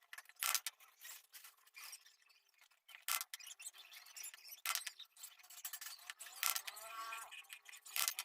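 Metal wire being cut and worked with a hand tool: sharp snips or clicks every second or two, with short squeaks from the metal around the seventh second.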